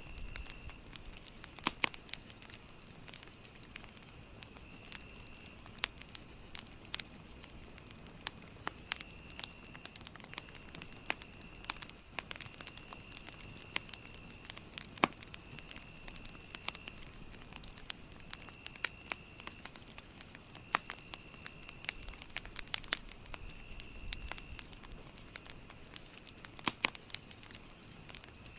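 Campfire crackling, with sharp pops at irregular intervals, over a steady chorus of insects: a high continuous trill, a chirp repeating about twice a second, and a lower trill that comes and goes every few seconds.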